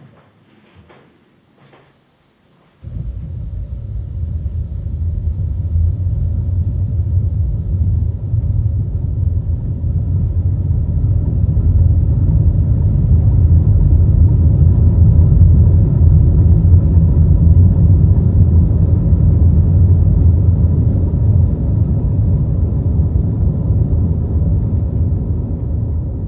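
A deep, loud rumbling drone that starts suddenly about three seconds in after a few faint clicks, then swells slowly and holds steady.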